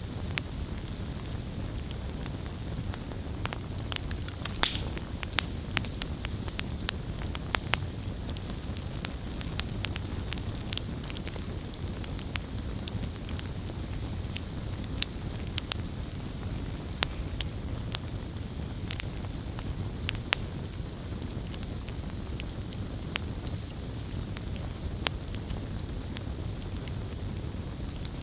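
Wood campfire crackling: irregular sharp pops and snaps, some louder than others, over a low steady rush of the flames.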